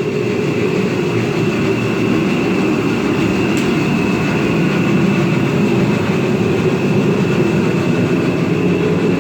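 Steady machine-like rumble with a faint, steady high tone above it.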